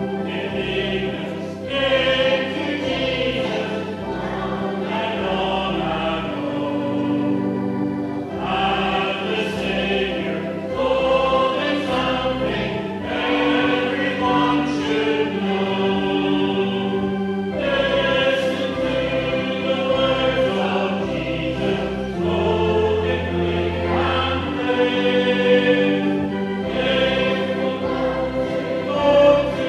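Children and congregation singing a chorus together, with organ accompaniment holding steady bass notes under the voices.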